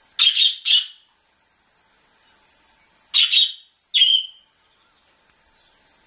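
Harsh, loud calls from a small cage bird: two pairs of short calls, the second pair about three seconds after the first.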